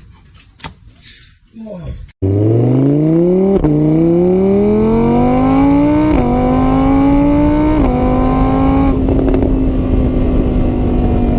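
An engine accelerating hard, its pitch climbing and dropping three times as it shifts up through the gears, then running at a steady speed. It starts suddenly after a couple of seconds of faint clicks.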